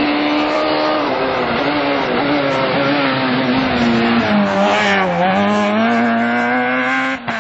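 Rally car engine running hard and loud through a hairpin. Its pitch eases down, dips about two-thirds of the way through, then holds steady.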